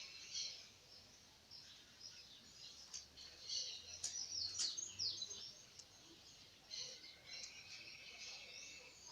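Small birds chirping and singing, several calls overlapping, with a buzzy trill at the start and again about seven seconds in and a flurry of quick chirps about four to five seconds in.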